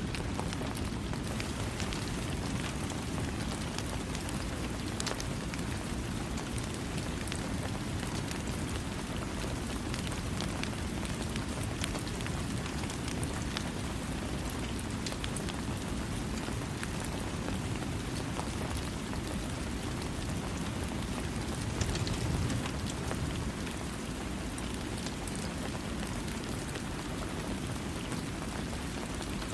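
Steady rain falling: an even hiss peppered with many small drop impacts. About twenty-two seconds in there is a brief, deeper swell.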